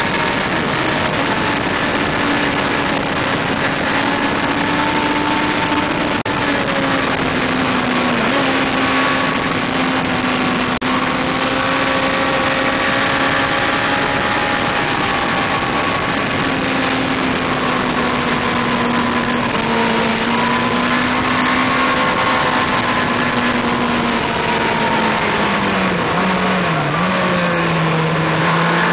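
Onboard sport motorcycle engine pulling steady high revs through fast corners, with heavy wind rush over the microphone. Near the end the revs drop and settle lower as the throttle comes off.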